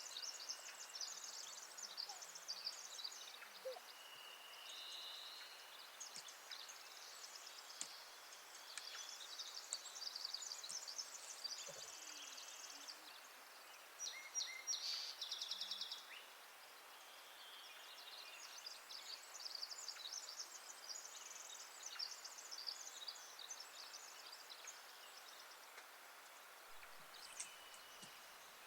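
Faint birdsong outdoors: several small birds chirping and trilling, with short whistled notes, over a steady background hiss.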